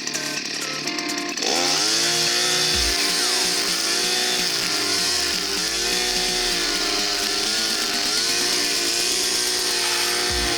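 HAIGE 52cc two-stroke backpack brush cutter idling, then about a second and a half in throttled up to full speed; the engine's pitch repeatedly sags and recovers under load as the nylon line head cuts into thick brush.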